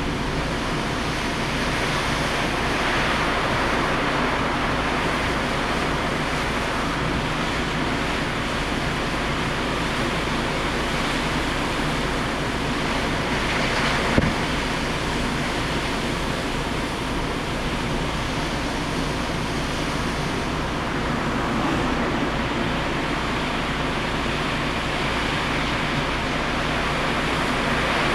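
Typhoon wind and heavy surf making a steady, even rush of noise that swells a little now and then, with one brief knock about halfway through.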